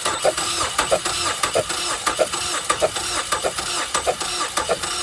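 2013 Ford Escape engine cranking on its starter without firing, its coils and injectors unplugged for a compression test. The engine chugs evenly at about three pulses every two seconds.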